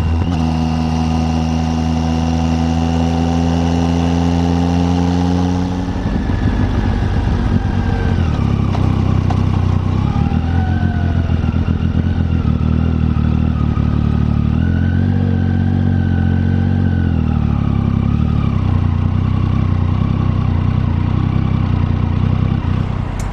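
Triumph Tiger 800 three-cylinder engine running under way. The pitch is steady and slowly falling for about the first six seconds, then rises and falls in steps as the speed changes.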